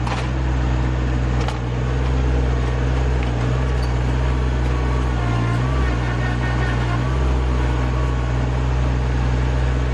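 Rural King RK25 subcompact tractor's engine running steadily, with a faint whine over it that wavers in pitch in the second half.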